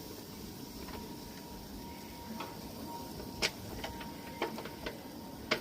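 Meat skewers being laid by hand on a hot grill grate: a few sharp clicks in the second half, over a steady low hiss.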